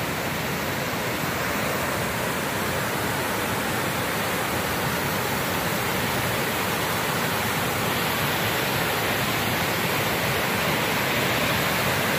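Steady rush of a nearby waterfall and river water, growing slightly louder.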